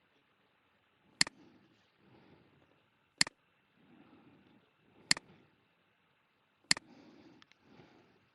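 Four sharp computer mouse clicks about two seconds apart, each a quick double tick of press and release, with soft breathing close to the microphone between them.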